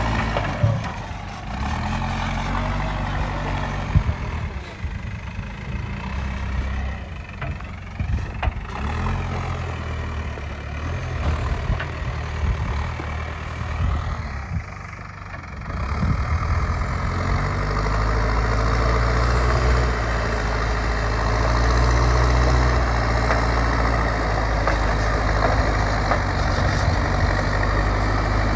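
Heavy diesel engine of a JCB digger working, its pitch shifting with a few sharp knocks through the first half. About halfway it settles into a steadier, louder run.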